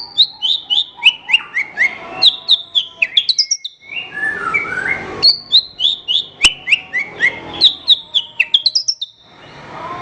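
Javan bush lark (branjangan) singing: quick runs of sharp chirps, each sliding downward in pitch, several a second, in phrases a few seconds long broken by short pauses with softer, lower warbling notes.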